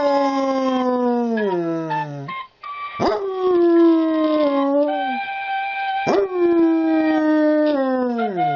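Dog howling: three long howls, each swooping up sharply at the start and then sliding slowly down in pitch.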